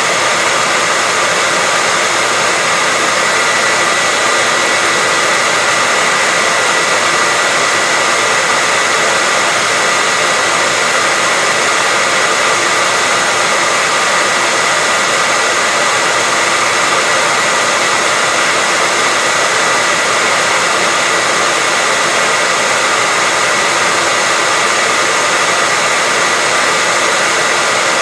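Hair dryer running continuously at a steady speed, a constant rush of air with a high whine from the motor and fan.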